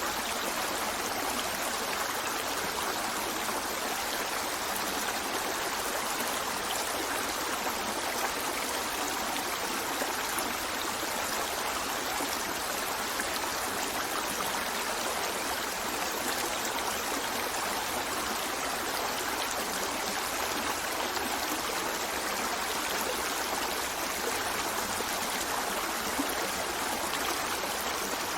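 Steady rush and trickle of a stream flowing.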